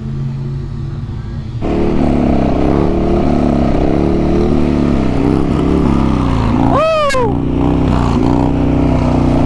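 Motorcycle engine pulling hard about a second and a half in, its pitch rising and dropping as the rider rides and shifts, with wind rushing past. A rider shouts "woo" near the end.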